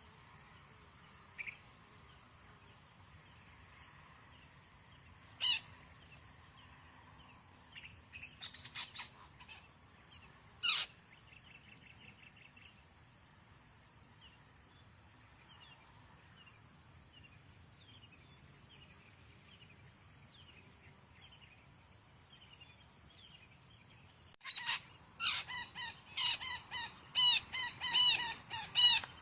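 Long-tailed parakeets calling: a few scattered calls in the first half, then a fast run of loud, repeated calls over the last five seconds. A steady high insect drone runs underneath.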